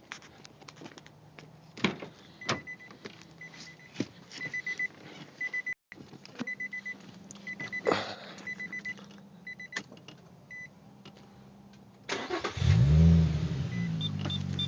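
Car's warning chime beeping over and over at one pitch amid scattered clicks and knocks. About twelve seconds in, the engine cranks and fires, its pitch sweeping up and then settling into a steady idle through a newly fitted aftermarket exhaust.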